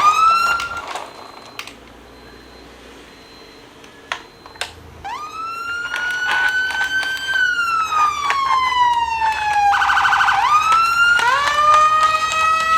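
Electronic siren wailing: the tone sweeps up, holds, then slowly falls, breaks into a brief fast warble, and sweeps up again. A few clicks sound in a quieter stretch before the first long wail.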